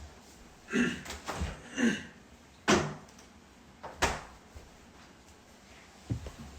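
A fridge door being opened and shut, with two sharp knocks about a second and a half apart and a softer one near the end.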